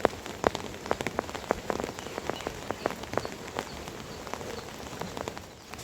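Rain falling, with heavy drops striking a hard surface as irregular sharp taps over a steady hiss; the taps come thick at first and thin out after a few seconds.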